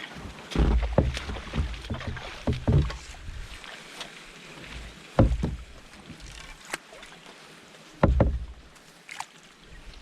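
A canoe being paddled: irregular splashes and knocks of paddle strokes in the water, one every one to three seconds.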